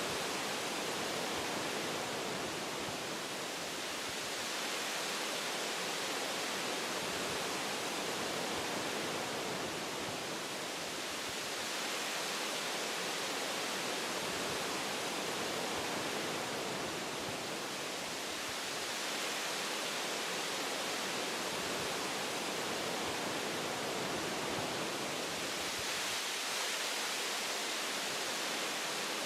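Wind blowing through tree branches in a forest, a steady rushing noise that swells and eases gently every few seconds.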